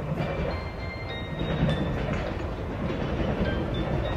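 JR Shikoku 8000 series electric train rolling through the points, wheels clattering over rail joints with a low rumble that grows louder about a second and a half in. A few short, thin high-pitched tones sound over it.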